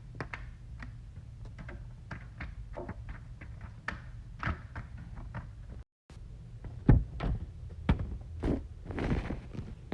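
Scattered knocks and thumps over a steady low hum, with a brief dropout about six seconds in and louder thumps after it.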